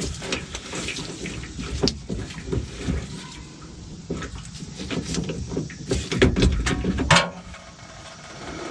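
Diesel fuel running out of the opened fuel filter housing into a drip pan, with irregular knocks and clanks of the socket and wrench against the housing, loudest about six to seven seconds in.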